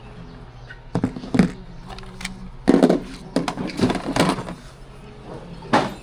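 A series of irregular knocks and clatters, about seven in all, over a low steady hum.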